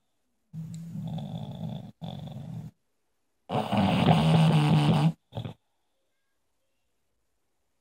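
Bulldog snoring: two long snores about three seconds apart, the second louder, with a short snort just after it.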